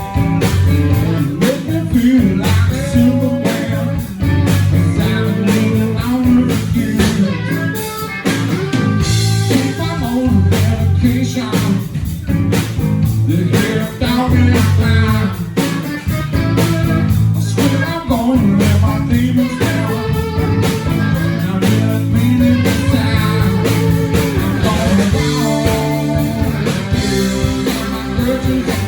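Live blues-rock band playing, with guitar and drums driving the music.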